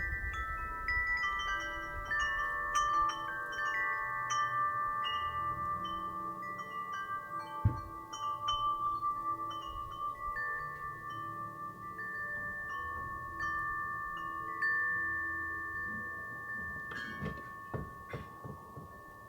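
Metal wind chimes ringing in the breeze, struck again and again so that several clear, long-sustained notes overlap and fade, with a low rumble of wind underneath.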